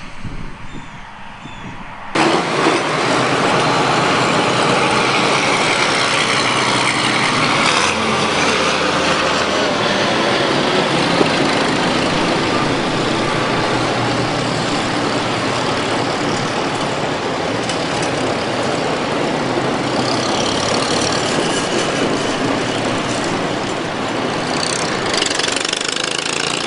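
Antique farm tractor engines running, loud and steady; the sound starts abruptly about two seconds in.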